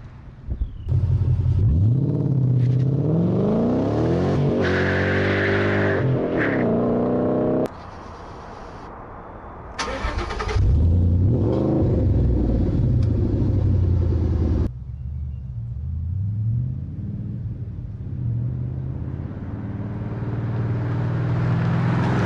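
2014 Mustang GT's 5.0 V8 through MAC axle-back mufflers, revving and accelerating: the exhaust note climbs and falls in pitch through two loud spells that each cut off abruptly. It then settles to a lower, steadier rumble that builds again near the end.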